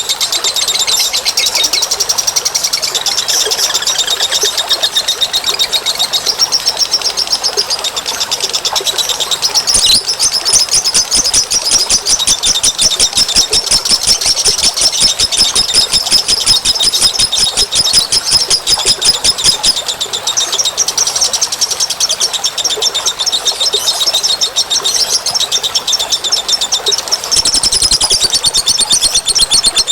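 Bird-lure recording of small birds chirping in rapid, high-pitched trills, many notes a second, dense and continuous. The pattern of calls changes about a third of the way in, again near two thirds, and near the end.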